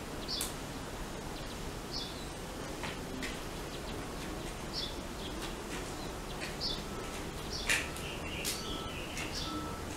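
Birds chirping outside: short high chirps every second or two over a steady low background hum, with a few sharp clicks, the loudest about three-quarters of the way through.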